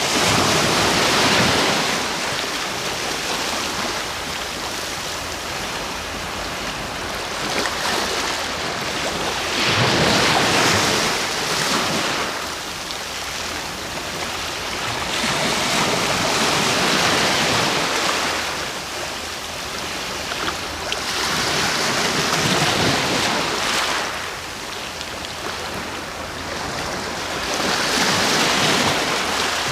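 Sea waves breaking and washing onto the shore. The hiss of the surf swells and fades every five to six seconds over a steady wash.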